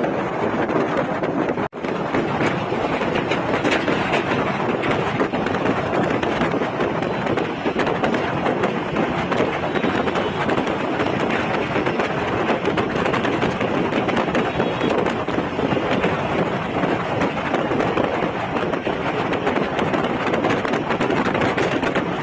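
Steady, dense highway traffic noise that briefly cuts out about two seconds in.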